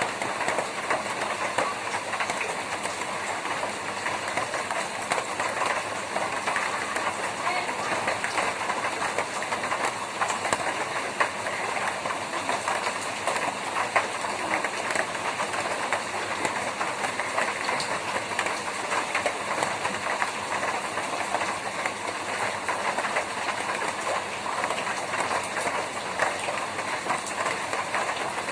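Rain falling on a tin roof: a dense, steady patter of many drops hitting the metal.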